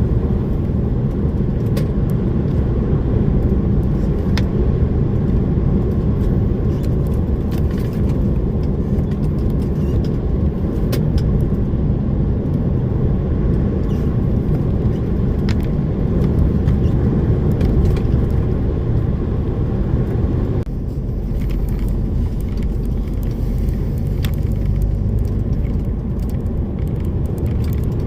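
DAF lorry on the move: steady low engine and road rumble with scattered small clicks and rattles. About twenty seconds in, the noise turns a little quieter and duller.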